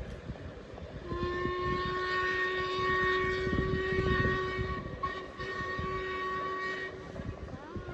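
Steam locomotive whistle sounding one long blast of about six seconds, starting about a second in, over the low rumble of the passing train.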